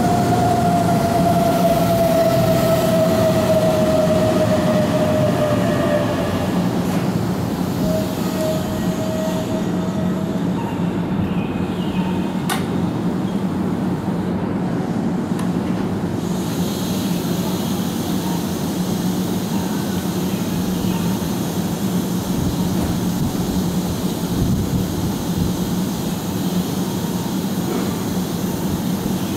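Keihan electric train at the platform: a whine that falls gently in pitch over the first several seconds, then a steady low hum and rumble.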